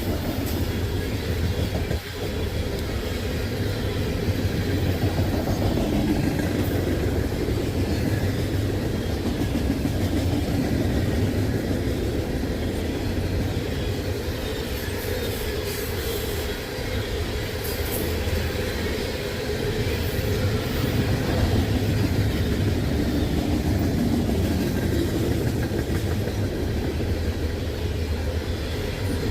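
Freight train cars rolling steadily past, a continuous rumble with wheels clicking over the rail joints.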